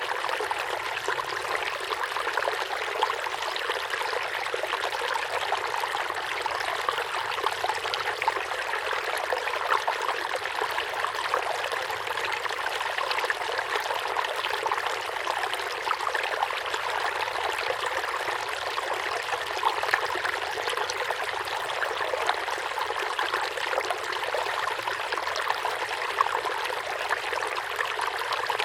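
Flowing river water, a steady rush with small ripples and splashes.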